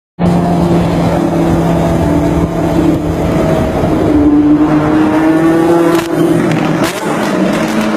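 Ferrari engine running loudly in a tunnel, its note climbing steadily from about halfway through, then dropping sharply about six seconds in.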